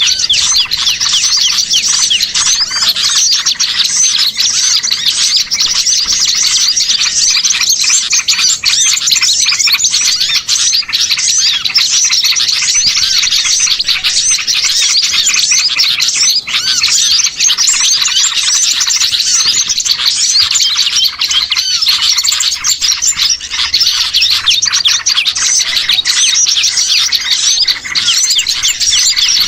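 Noisy chorus of many small songbirds chirping and chattering at once, overlapping high-pitched trills that never let up. It is a bird-trapper's lure recording of small birds, played to draw wild birds in.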